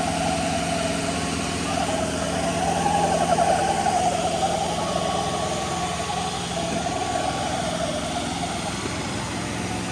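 Tractor diesel engine running steadily, with a wavering higher tone above it.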